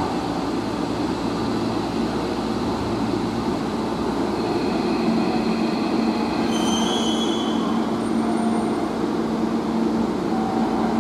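Hanshin 5700-series commuter train pulling into an underground station platform: a steady rumble of wheels on rail. A low steady hum joins about four seconds in, and a brief high squeal comes about six and a half seconds in as the train slows to a stop.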